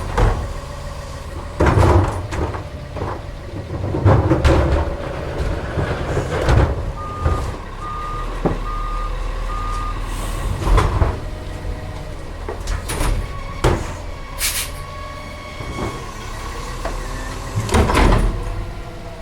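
CCC LET2 garbage truck with a Heil split-hopper side-loader body at work: its engine and hydraulics run steadily under repeated loud bangs and clanks. A reverse alarm beeps four times in the middle.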